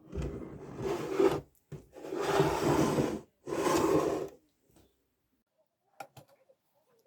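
Three long abrasive scraping strokes, each lasting about a second, followed by a few light clicks near the end.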